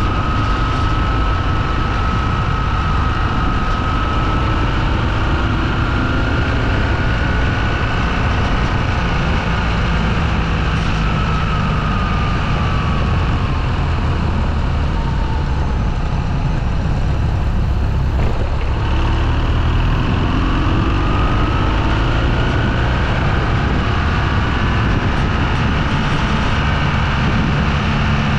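Motorcycle engine running under way over steady wind noise. Its pitch sinks about halfway through, then climbs again.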